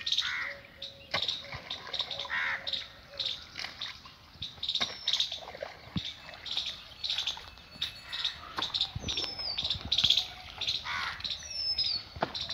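Small birds chirping over and over, with a few whistled calls that glide down in pitch, and a few sharp knocks scattered through.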